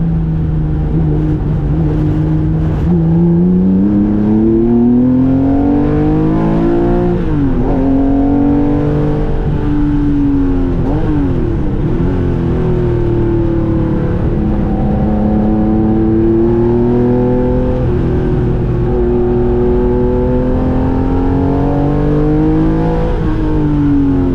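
Porsche 911 race car's air-cooled flat-six engine under load on track, revs climbing through the gears. There is a sharp drop in revs around seven seconds in and quick up-and-down blips around eleven seconds, then a long steady pull and another drop near the end.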